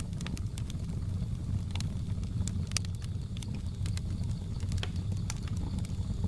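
Wood fire crackling, with irregular sharp pops over a steady low rumble. A faint steady high tone comes in about halfway.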